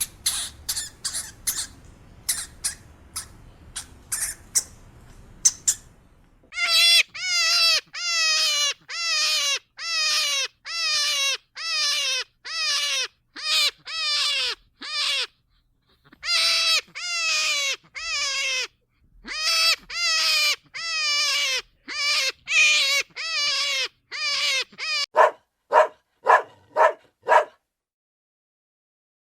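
An animal calling over and over, about one call a second, each call with a falling start, after a few seconds of short quick chirps.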